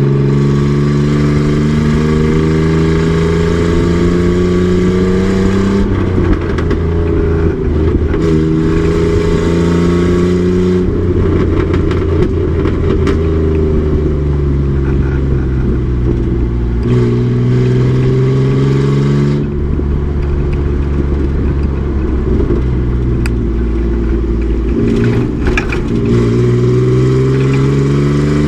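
Race truck's engine under hard load on track, revs climbing in long pulls and falling again, with several sudden drops in pitch as the driver shifts or lifts.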